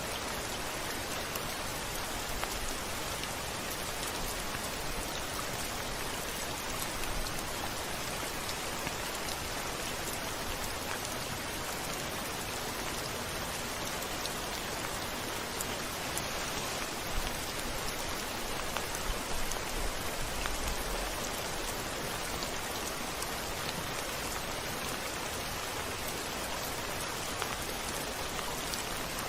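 Steady rain falling on window glass: an even hiss with scattered individual drop hits, and a brief low rumble about two-thirds of the way in.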